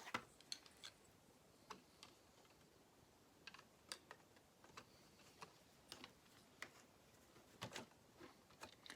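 Faint, irregular clicks and taps of small plastic Lego pieces being handled and pressed onto each other, with a few clicks in quick succession near the end.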